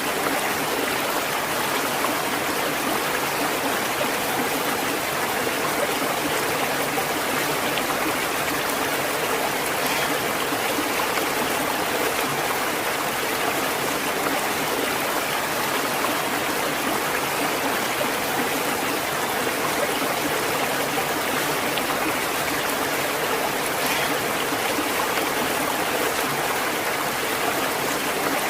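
Natural running water flowing steadily, an even, unbroken rush with no change in level.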